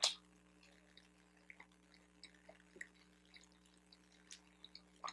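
Faint, wet chewing and mouth clicks from someone eating a bacon, egg and cheese bagel sandwich close to the microphone, with a sharper click at the start and another near the end.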